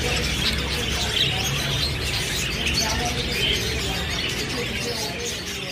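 A flock of lovebirds chattering, with a dense mass of overlapping chirps and squeaks over a steady low hum. It fades slowly near the end.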